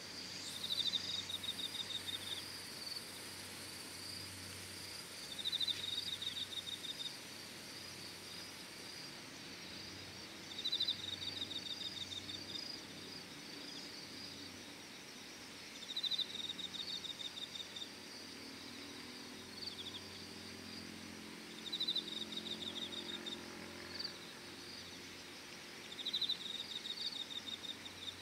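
Insects calling: a pulsed high trill comes about every five seconds, each burst lasting a second or so and fading, over steadier high-pitched chirping from other insects.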